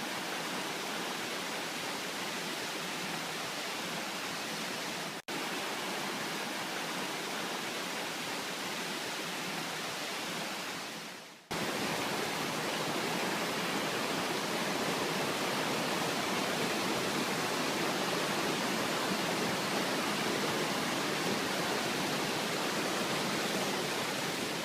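Steady rushing water, a continuous even hiss with no pitch. It breaks off for an instant about five seconds in, fades out before eleven seconds, and comes back a little louder and fuller.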